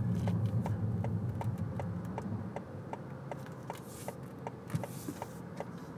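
Car turn-signal indicator clicking steadily, about two and a half clicks a second, over low engine and road rumble inside the cabin.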